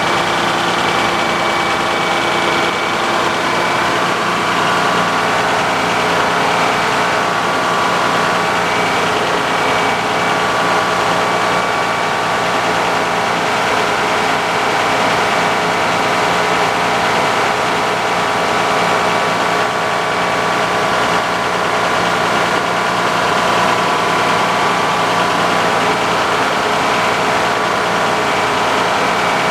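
Sawmill's engine running steadily at a constant speed, with no change in pitch or load.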